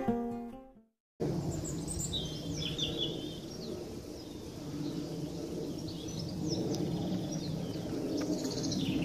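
Wild birds chirping and singing in woodland, in short high calls scattered through, over a steady low rumble of outdoor background noise. An acoustic guitar tune fades out in the first second, followed by a moment of silence before the woodland sound starts.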